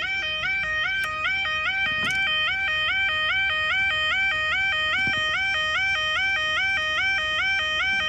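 UK level crossing audible warning alarm sounding continuously, a two-tone electronic yodel stepping rapidly back and forth between a lower and a higher pitch, warning that a train is approaching.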